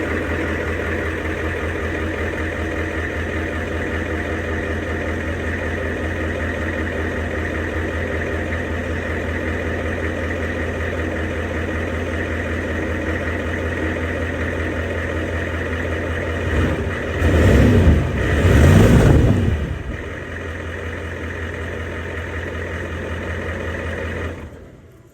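Diesel engine of an OBS Ford pickup idling steadily through a new exhaust with a long muffler, revved twice about seventeen and nineteen seconds in, then idling again and shut off near the end.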